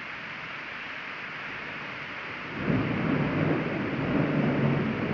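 Heavy rain hissing steadily. About two and a half seconds in, a loud low rumble sets in and continues.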